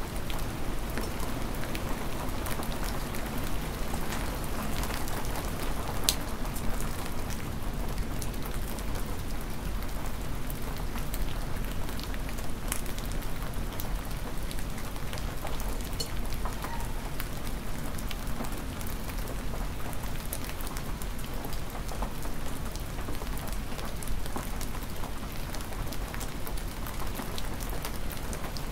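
Hard, near-freezing spring rain falling steadily, with many sharp individual drop hits scattered through it.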